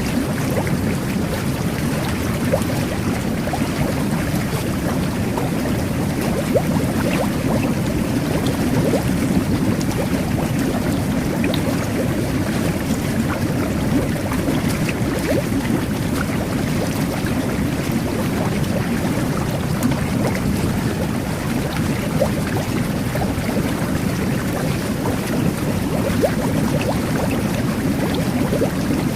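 Jet bath churning bathwater: a steady low rush of jetted water and air bubbles, with small bubbles popping here and there.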